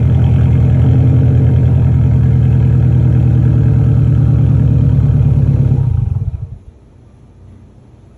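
2021 Subaru WRX STI's turbocharged 2.5-litre flat-four engine running steadily, then switched off about six seconds in, its sound dying away within half a second.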